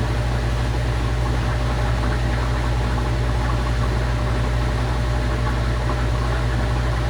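Panasonic Titânio 12 kg washing machine running steadily with a constant low hum and a noisy whir.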